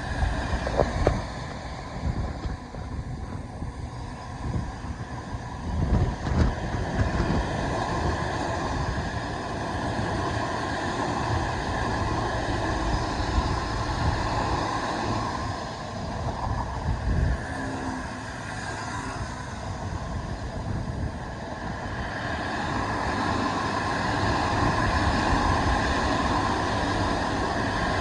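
Heavy diesel-hauled stone train passing through: a Class 66 at the head and a Class 59 at the rear, with loaded aggregate wagons rumbling and clattering over the rail joints. The noise is continuous with irregular knocks, growing louder in the second half.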